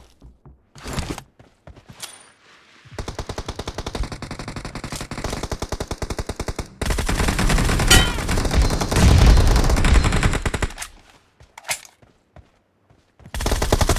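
Video game automatic gunfire: a long rapid burst starts about three seconds in, gets louder and heavier about seven seconds in, and stops near eleven seconds. A few single shots come before and after it.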